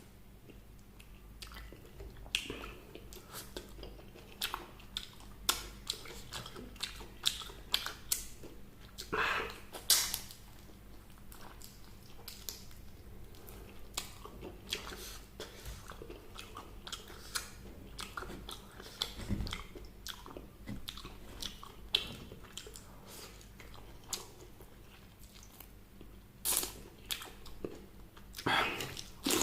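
Close-miked eating of fried chicken: irregular bites and chewing crunches, with louder runs of crunching about nine seconds in and near the end.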